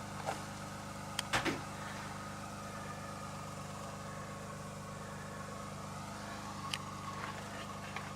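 A vehicle engine running at a steady, unchanging pitch. A few short clicks or knocks come about a second in and again near the end.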